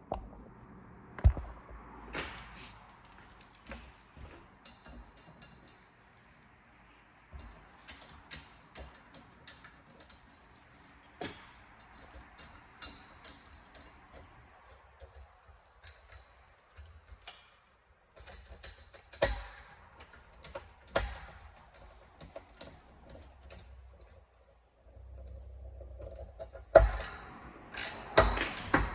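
Scattered clicks, taps and knocks of tools and small parts being handled while an electrical unit is worked on, with a few sharper knocks about a second in and several more near the end.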